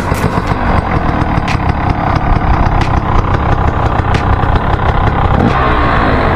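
Dirt bike engines idling and running, with one engine's pitch rising and falling briefly near the end.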